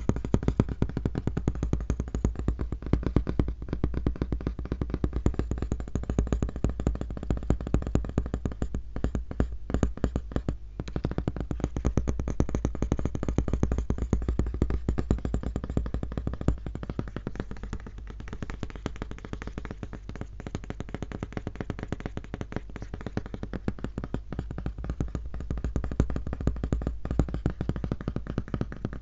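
Fast tapping on a laptop: a dense run of quick taps, broken by two brief pauses about nine and eleven seconds in and a little softer in the second half.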